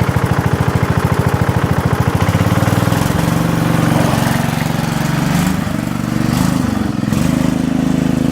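Riding lawn mower's small engine running just after starting: a fast, even pulse at first, then the engine speed climbs and wavers about halfway through before settling steady again.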